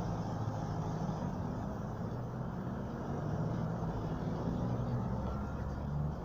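Steady low rumble of a motor vehicle running, its engine hum swelling and easing a little.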